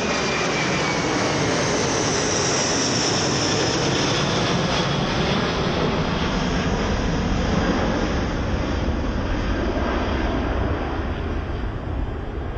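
Boeing 747-200's four jet engines at go-around thrust as the airliner climbs away on a missed approach. A high whine slides slowly down in the first few seconds, giving way to a deep rumble that eases slightly near the end.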